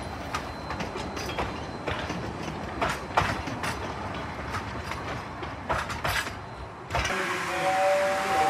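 Train car rolling along, its wheels clicking and knocking irregularly over the rail joints above a steady rumble. About seven seconds in it cuts to a model train, with a two-tone whistle held for about a second.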